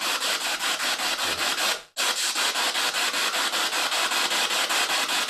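Spirit box scanning radio stations: a steady hiss of static chopped by a rapid, even pulsing as it sweeps, cutting out briefly about two seconds in.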